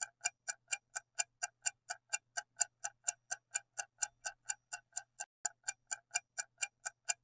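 Ticking clock countdown sound effect, with sharp, even ticks about four times a second, marking the time left to answer a quiz question.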